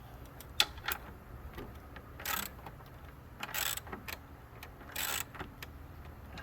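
Hand ratchet being worked to tighten a fastener: its pawl clicks, with a few short strokes about a second and a half apart.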